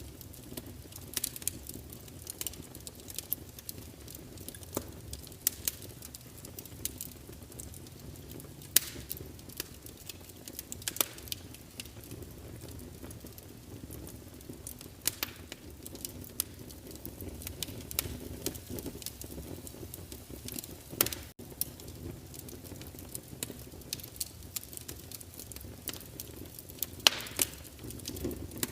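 Wood fire crackling in a fireplace: irregular sharp pops and snaps over a low, steady rush of flame, with a few louder pops scattered through.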